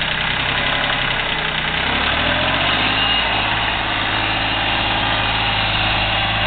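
Yanmar 226D compact diesel tractor engine running at idle, then speeding up about two seconds in and holding steady at the higher speed.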